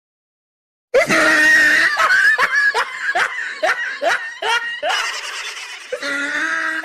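Laughter sound effect: after a second of silence, a voice laughs loudly in a rapid string of short bursts.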